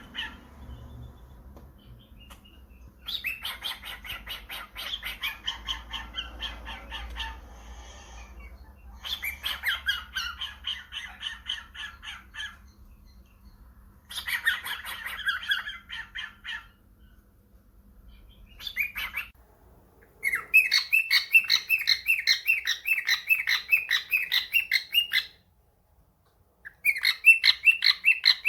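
Cockatiel chattering in bursts of rapid, repeated squawky chirps a few seconds long, with short pauses between. The bursts grow longer and louder in the second half.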